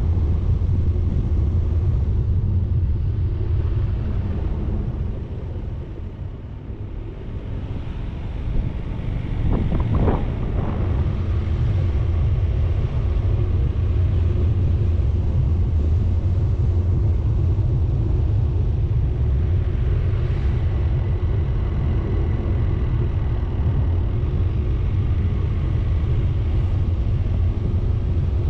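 A vehicle driving on a mountain road: steady low engine and road rumble that eases off briefly about five seconds in, with a short rush of noise around ten seconds in before settling back to a steady drone.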